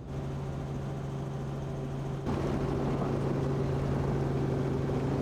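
Helicopter in flight: a steady engine and rotor drone with a constant low hum, getting louder about two seconds in.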